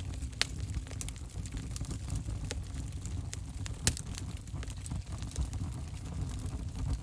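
Wood fire burning in a fireplace: a steady low rumble of the flames with scattered sharp crackles and pops, the loudest pop about four seconds in.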